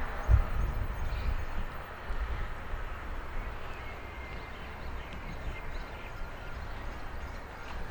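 Outdoor lakeside ambience: a steady low rumble, strongest at the start, with faint bird chirps scattered through it.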